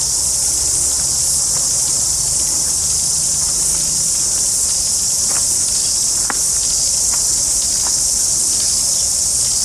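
A loud, steady high-pitched chorus of insects, with a few faint ticks in the second half.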